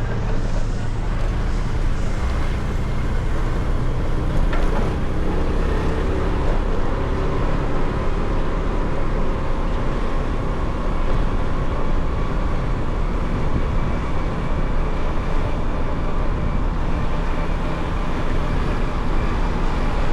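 Motorcycle engine running steadily while riding, with wind and road noise over it from the rider's position.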